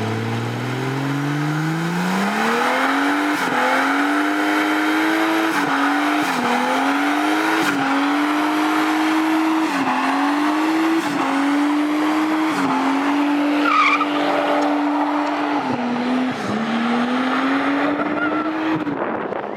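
A car doing a burnout: the engine is revved up over the first few seconds, then held at high revs with brief dips about every second and a half, while the spinning rear tyres screech.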